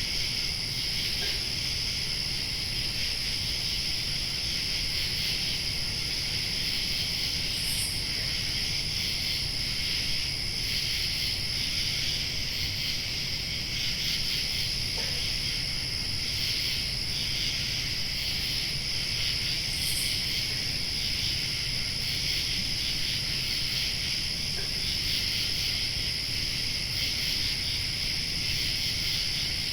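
Summer night insect chorus, crickets chirping in a continuous dense high buzz with a thinner, higher steady trill above it, over a low even background rumble.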